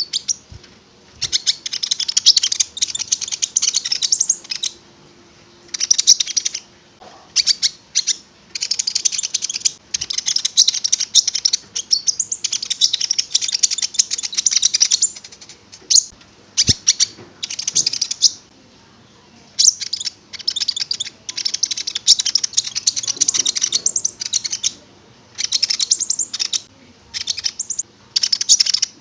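A konin singing hard: bursts of rapid, high-pitched chattering song a second or three long, repeated again and again with short pauses between.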